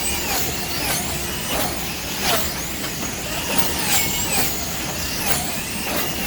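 Electric slot car motors whining, the pitch rising and falling over and over as the cars speed up and slow down around the track, with scattered clicks.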